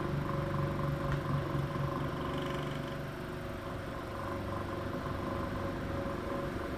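A circa 1935–36 General Electric Quiet Blade desk fan running steadily on medium speed with a constant motor hum. It runs with a shaky vibration caused by a blade bent out of line.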